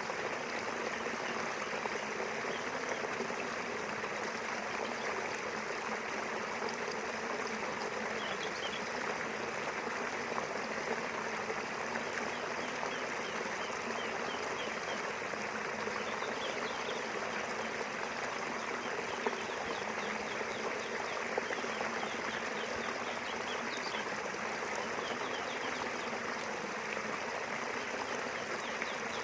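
River water flowing steadily, a constant even rush. Faint short high chirps come and go over it from about a quarter of the way in.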